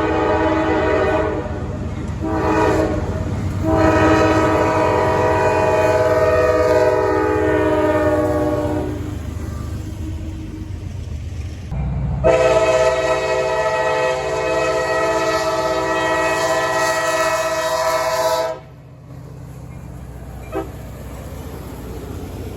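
Freight locomotive's multi-chime air horn sounding a chord in several blasts, two of them long, over the low rumble of the passing train. The horn stops a few seconds before the end, leaving the train's rumble.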